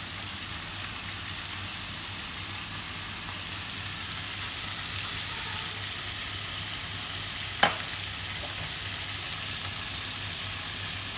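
Strips of chicken with onion and bell pepper sizzling steadily in a frying pan as they brown. A single sharp click sounds about two thirds of the way through.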